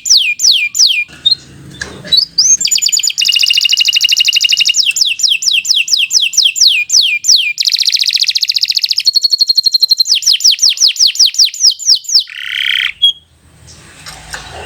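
Domestic canary in full song, long rapid trills of repeated down-slurred whistled notes that change from one roll to the next, with a short harsh buzzy phrase about twelve seconds in. There are brief breaks about a second in and near the end.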